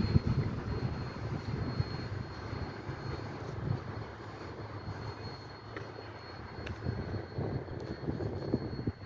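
Low rumble of a freight train's last cars rolling past, fading as the end of the train moves away, with a few faint clicks.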